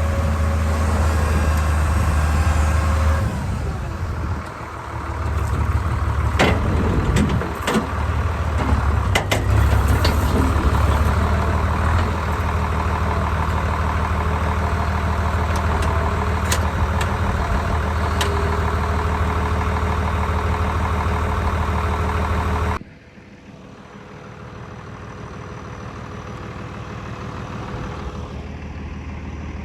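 Farmall 666 tractor engine running steadily, with several sharp knocks and clanks about a quarter to a third of the way in. The engine sound cuts off abruptly about three-quarters of the way through, leaving a much quieter background.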